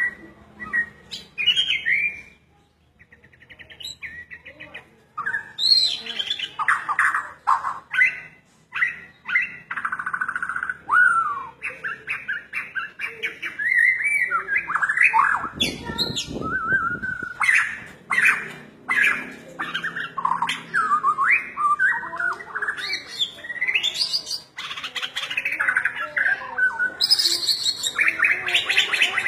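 Bornean white-rumped shama (murai batu) singing a long, varied song of quick whistled phrases, chatters and clicks. A brief low rumble comes about halfway through.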